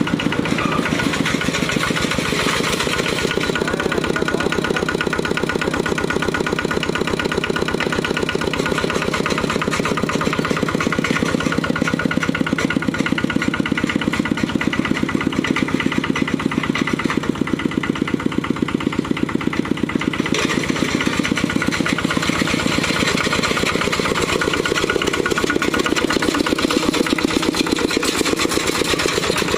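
Kubota RT120 12-horsepower single-cylinder diesel engine on a walking tractor, running steadily with fast, even firing pulses.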